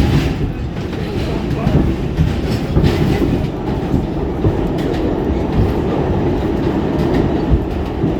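R46 subway car running along the track, heard on board: a steady low rumble from the wheels, with occasional clickety-clack over rail joints.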